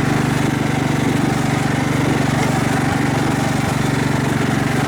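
Craftsman riding lawn mower's engine running steadily under load while towing another riding mower up a steep hill.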